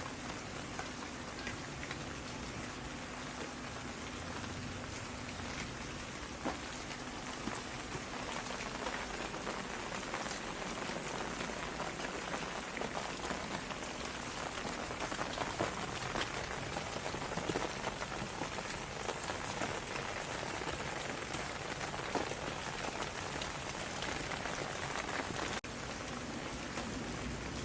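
Steady rain falling, with many individual drops ticking sharply over a continuous hiss, and a momentary drop-out in level near the end.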